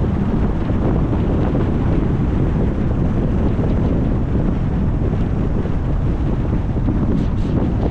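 Steady wind rushing over the microphone and road noise from a moving car, heavy in the low range.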